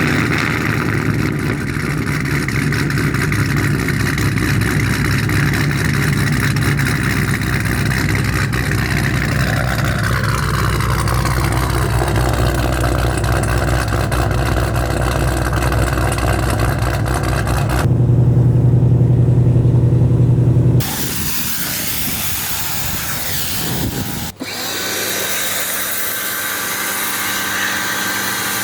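Car engine running at a steady note, louder for about three seconds around two-thirds of the way through. The sound then changes abruptly twice to a hissier background with a fainter engine hum.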